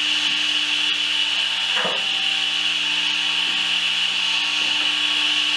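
A steady, continuous machine hiss with a constant high whine and low hum, typical of a power tool running while wood is worked, with one short scrape about two seconds in.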